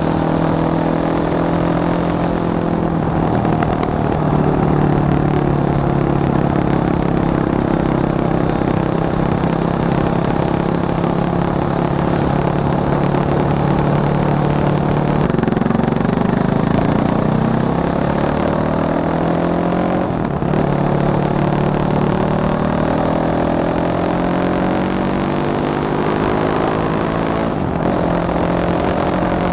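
Fantic Caballero 500 Flat Track motorcycle's single-cylinder engine running. Its note holds steady for long stretches, then climbs in pitch about halfway through, with two brief breaks in the later part.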